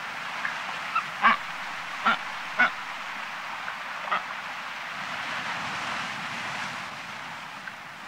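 Short bird calls, about five in quick succession in the first half, over a steady background hiss.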